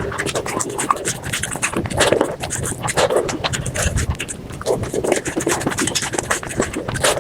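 Close-miked eating sounds of crispy spicy chicken skin and rice, chewing and mouth smacks played back at five times speed, so they run together into a dense stream of rapid clicks and crackles with a short lower mouth sound about once a second.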